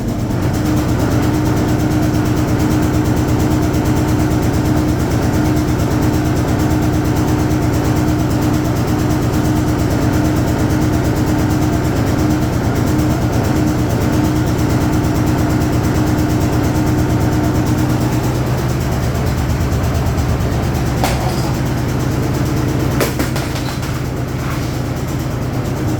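Hoover Automatic 820 washing machine running with a steady motor hum. About 18 seconds in the hum changes pitch, and a few sharp clicks come near the end.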